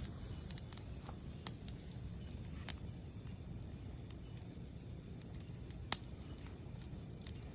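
Campfire burning: a steady low rumble with sparse, sharp crackles and pops, one louder pop late on.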